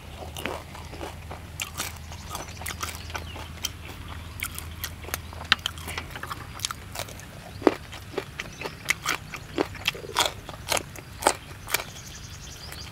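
Close-up chewing of crispy-skinned roasted field rat and raw long beans: a string of sharp, irregular crunches.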